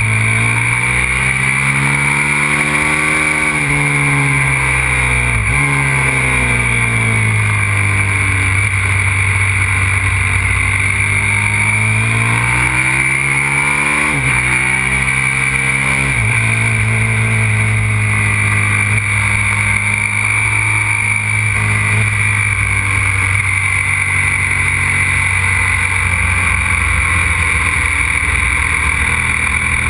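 Aprilia RXV 550 supermoto's V-twin engine run hard on track, its pitch climbing and falling as the rider works the throttle and gears. The pitch drops sharply about five seconds in and again about fourteen seconds in, then holds steadier and lower. A steady hiss runs underneath.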